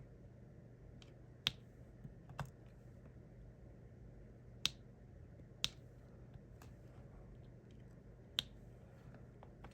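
Diamond painting drill pen tapping resin drills onto the sticky canvas: small sharp clicks at an irregular pace, about five louder ones with fainter taps between. A low steady hum runs underneath.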